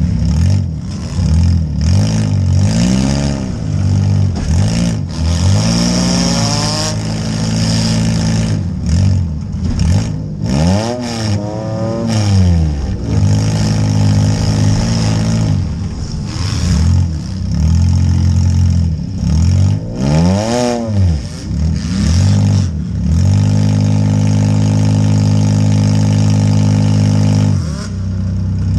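Compact demolition derby car's engine, heard from inside the gutted cabin, revving up and falling back again and again as the car drives back and forth, with knocks and clatter from the battered body. Near the end the engine is held at a steady high speed for several seconds.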